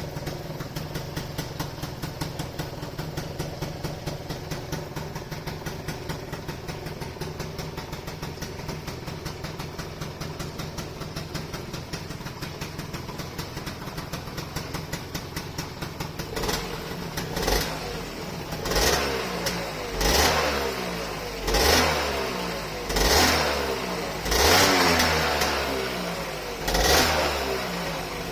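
Customized Gilera Runner FXR180SP two-stroke scooter engine idling steadily through its aftermarket exhaust, then revved in short throttle blips, about eight of them roughly a second and a half apart, starting about two-thirds of the way in.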